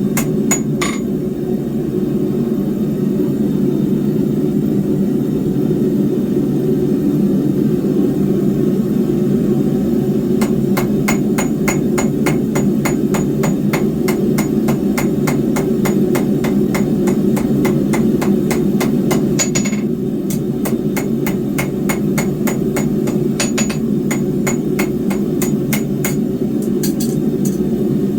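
Hand hammer forging 3/8-inch square steel bar on an anvil: a couple of blows at the start, then a long run of quick blows about three a second from about ten seconds in until nearly twenty, and another run near the end, many with a short metallic ring. A steady low roar runs underneath.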